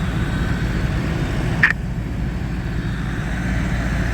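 Steady low rumble of fire apparatus engines running at a working fire, with one short, sharp high chirp about a second and a half in.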